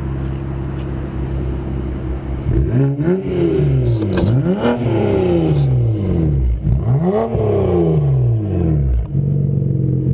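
BMW 335i turbocharged straight-six idling through a 3.5-inch stainless steel aftermarket exhaust, then revved three times a little over a second apart starting about two and a half seconds in. Each rev rises sharply in pitch and falls back more slowly toward idle.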